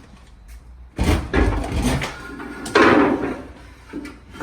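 Clunks and rattling from handling firefighting equipment, likely the breathing-air bottles. There is a heavy thud about a second in and another loud knock a little before the middle.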